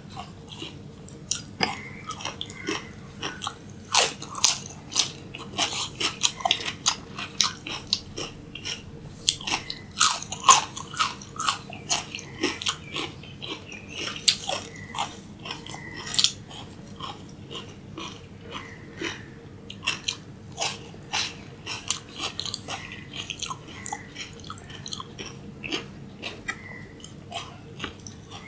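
Close-miked biting and chewing of crisp raw vegetable sticks, mainly cucumber: a run of sharp, irregular crunches, several a second, with the loudest bites about four and ten seconds in.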